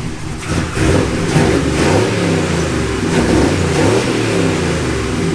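A car engine running and being revved, its pitch rising and falling several times.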